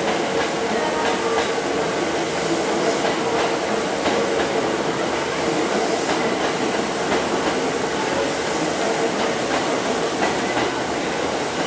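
Hankyu electric train cars rolling past over curved track and points. The wheels click over rail joints and a steady hum runs under the rolling noise.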